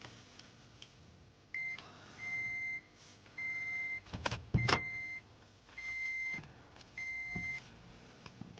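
Toyota Prius seatbelt reminder chime beeping, six even beeps about 1.2 seconds apart, starting about a second and a half in. A few short knocks sound in between the beeps near the middle.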